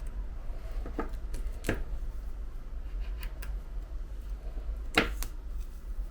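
A handful of short, light clicks and taps from a small tool working on an iPhone 11 Pro Max frame as old adhesive is cleaned off, the sharpest about five seconds in, over a steady low hum.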